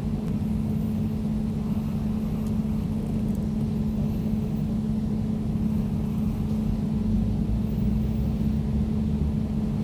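Air conditioner running steadily: an even low hum with a constant droning tone and a rumble beneath it, never changing.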